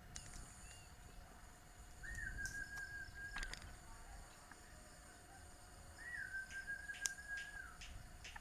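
Zebra dove (perkutut) cooing twice. Each call opens with a quick rise, holds a wavering note and then falls away. Scattered sharp high ticks sound in between.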